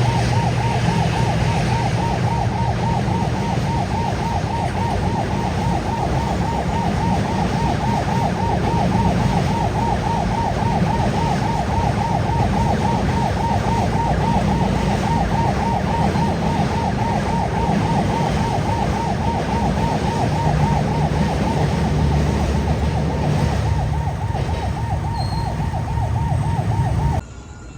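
Railway level-crossing warning alarm warbling rapidly and steadily over a low rumble, cutting off suddenly near the end.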